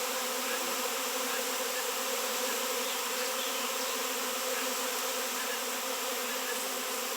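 A swarm of honey bees buzzing: many wingbeats blending into one steady, even hum.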